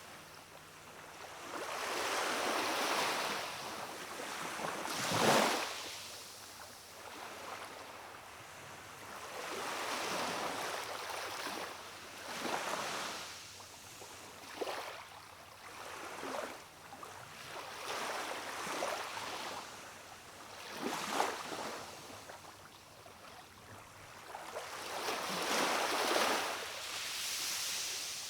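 Small waves of a calm sea washing against a rocky shore, swelling and ebbing every few seconds, with a few brief sharper splashes.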